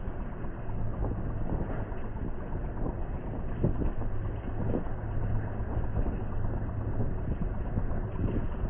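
Steady low rumble of a running vehicle with a low hum and wind buffeting the microphone, with a few light knocks.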